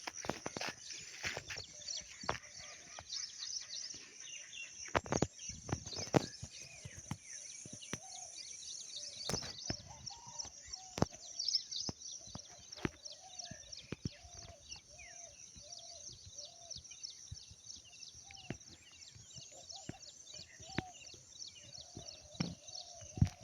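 Rural outdoor ambience: a steady high-pitched buzz throughout, with a run of short, repeated calls from about a third of the way in. Scattered sharp clicks and knocks come and go, most of them in the first quarter.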